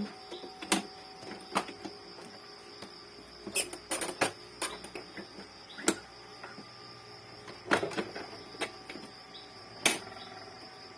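Irregular sharp clicks and taps of an inkjet printer's parts being handled and fitted back together by hand, a few coming in quick clusters about four and eight seconds in.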